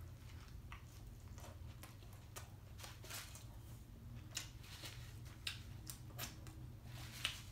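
Faint, irregular chewing and mouth clicks of a person eating a burger, over a steady low hum.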